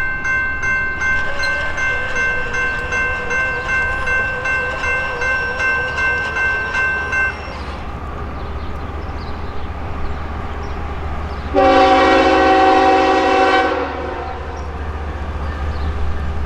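Low diesel rumble of an approaching GE ES44AC locomotive under a bell ringing at about two strokes a second, which stops about seven seconds in. About eleven and a half seconds in, the locomotive horn sounds one loud blast of about two seconds.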